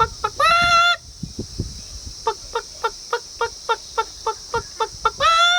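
A man imitating a chicken's alarm call with his voice, the sound a chicken makes when in danger: rapid clucks about three a second, broken by a long drawn-out squawk shortly after the start and another near the end.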